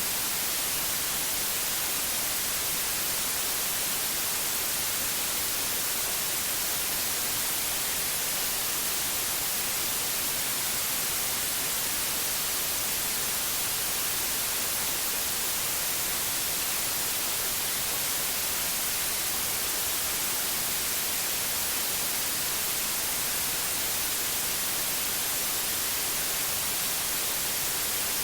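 Steady white noise: an even, unchanging hiss spread across all pitches, brightest in the high end.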